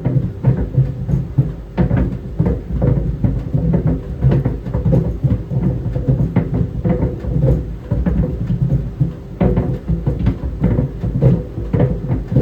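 Tennis balls tumbling in a running clothes dryer, knocking irregularly against the drum several times a second over the drum's steady hum.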